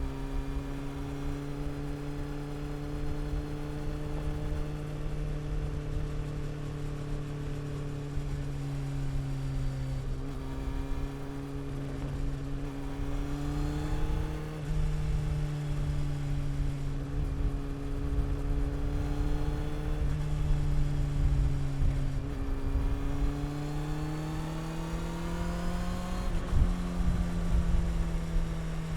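Honda CB400 Super Four's inline-four engine and exhaust under way at steady mid revs, the pitch rising and dipping a little with the throttle. About three-quarters of the way through the revs climb steadily as the bike accelerates, then ease off, over a low rumble of wind and road.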